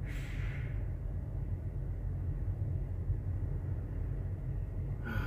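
Steady low rumble of a semi truck's idling diesel engine, heard inside the cab, with a short hiss fading out right at the start.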